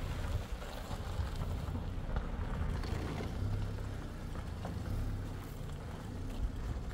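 Peugeot 405 sedan's engine running with a low, steady rumble as the car pulls away slowly on a dirt track.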